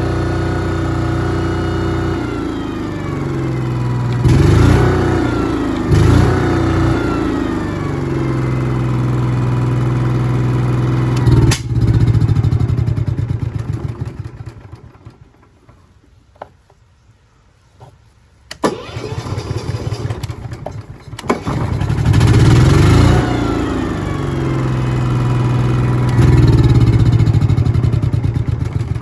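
Airman PGW180SCL engine welder-generator: its engine drops from high speed to idle with two brief surges, is switched off with a click about a third of the way in and runs down to a stop. After a few seconds of near quiet it is cranked with a rattle, catches with a surge and runs steadily again.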